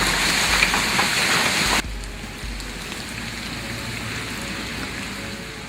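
Hail and rain pelting down hard, a dense clatter of many small impacts. About two seconds in it cuts off abruptly to a quieter, steadier downpour.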